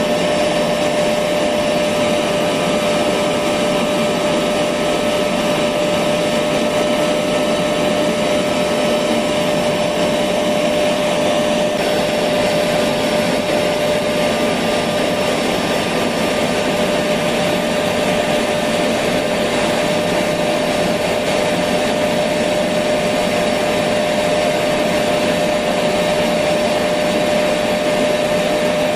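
Electric vacuum cleaner running steadily, an even whooshing motor noise with a constant whine, used as white noise to lull a baby to sleep.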